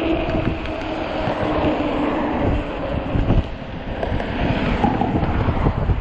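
Wind buffeting the microphone on a moving electric bike, a dense low rumble. A steady hum runs through the first half and fades out about halfway.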